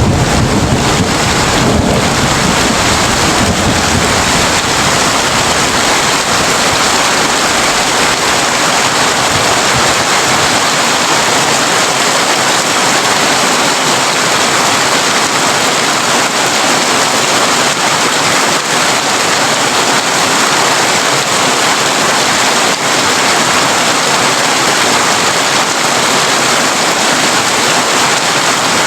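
Heavy rain drumming steadily on a tin roof. A low rumble of thunder at the start fades out over the first several seconds.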